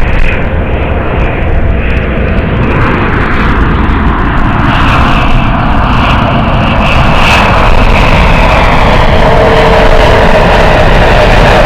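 Dassault Falcon 7X trijet's three Pratt & Whitney PW307A turbofans whining and rushing as it comes in to land, gradually growing louder.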